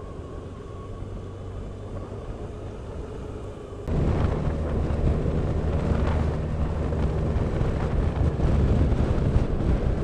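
Motorcycle on the move, its engine hum and road noise steady at first. About four seconds in the sound jumps suddenly louder and rougher, with a strong low drone and rattling.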